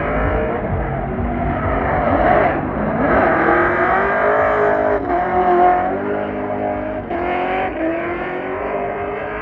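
Car engine revving hard, its pitch climbing and dropping several times as the throttle is worked.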